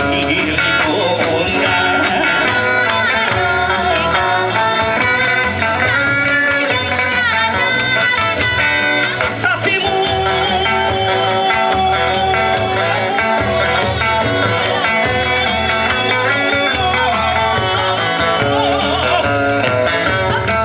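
Kawachi ondo music played live, with electric guitar over a steady low beat.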